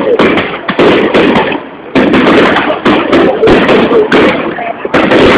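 Fireworks display: loud shell bursts come about once a second, each booming and then dying away in a rumble, with quick crackling pops between them.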